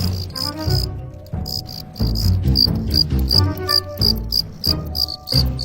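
Male cricket giving its angry-sounding rivalry call: a fast, unbroken string of high chirps made by rubbing the scraper of one wing across the file of the other.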